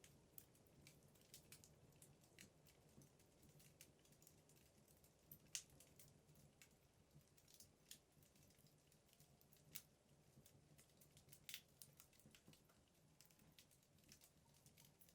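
Faint crackling of burning wood logs in a fireplace: small irregular pops and snaps, the loudest about five and a half seconds in, over a low steady hum.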